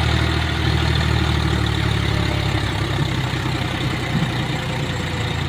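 Tractor engine running steadily, a low, even engine note.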